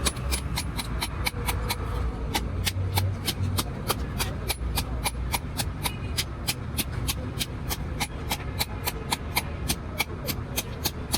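A fast, even series of sharp taps, about four to five a second, over a low rumble.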